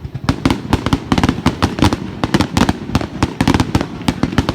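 Fireworks going off in a rapid, irregular barrage of sharp bangs and cracks, several a second, with no pause.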